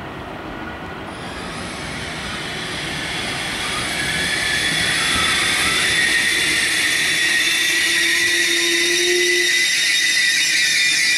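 ICE high-speed train running past close by, growing louder over the first few seconds and then holding steady, with a high-pitched whine over the rolling noise.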